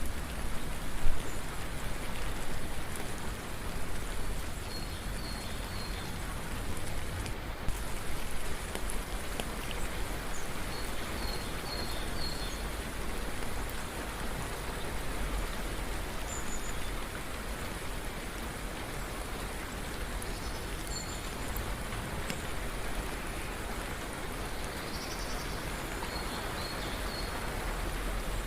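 Steady rain falling, an even hiss of drops, with a few faint short high chirps of birds now and then.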